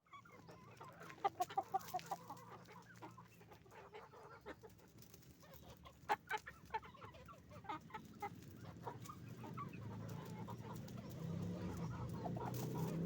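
Chickens clucking in quick runs of short notes, a flurry about a second in and another around six seconds in. A low rumble builds steadily underneath toward the end.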